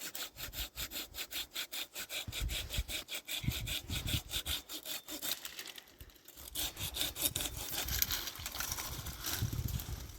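Fast rhythmic rasping strokes, about five a second, stopping briefly around six seconds in and then starting again.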